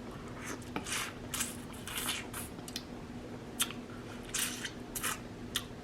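Close-miked eating sounds from a seafood boil mukbang: irregular wet smacks and squishes of chewing, about two a second, over a faint steady hum.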